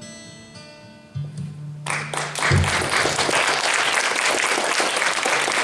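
The song's final accompaniment notes ring out and fade, then the audience breaks into applause about two seconds in and keeps clapping.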